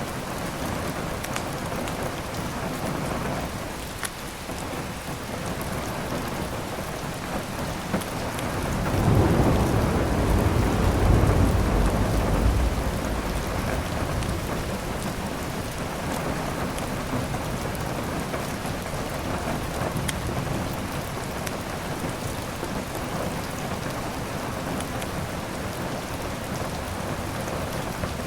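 Steady heavy rain with a roll of thunder that swells about nine seconds in and rumbles for several seconds before fading back into the rain. A few faint sharp pops from a crackling wood fire.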